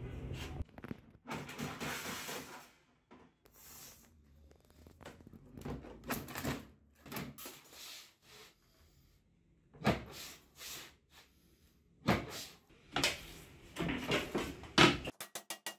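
Irregular knocks, clunks and short scrapes of workshop handling, as of parts and fittings of an antique wooden ice box being moved and fitted. The loudest knocks come in the last few seconds, and a fast regular ticking starts just before the end.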